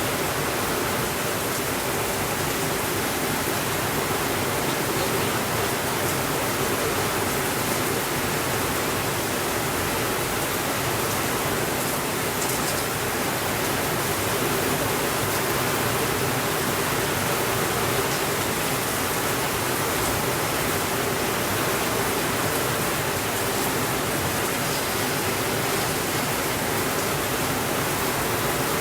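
Steady, even rainfall, heard as a constant hiss with no breaks.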